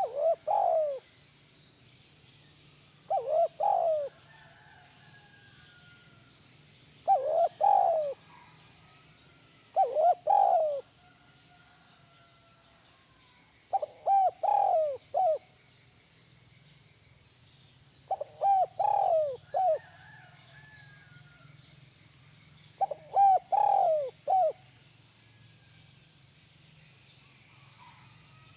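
Spotted dove (tekukur) cooing the 'kuk 1' song: seven phrases of a few quick coo notes each, one every three to five seconds, over a faint steady hum.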